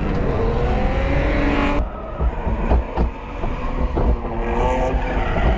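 BMW E46 330i straight-six revving under a clutch kick, its note cutting off suddenly about two seconds in. Irregular clunks and knocks follow as the car rolls on: the sound of a rear axle that has just let go.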